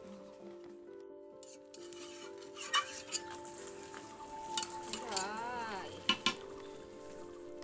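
A spatula stirring food in a sizzling pan, with a few sharp clinks of metal on the pan.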